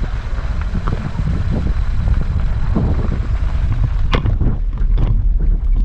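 Wind buffeting the microphone over the rumble of a car driving along a road, with a couple of sharp knocks about four and five seconds in.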